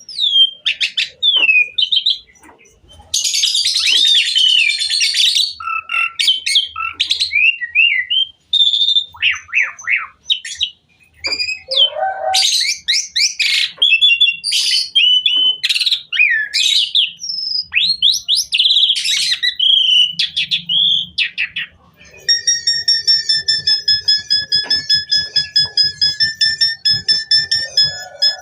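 Asian pied starling (jalak suren) singing a long, varied song of whistles, glides and harsh chatter. Near the end it changes to a steady pulsing phrase on one fixed pitch, about four pulses a second.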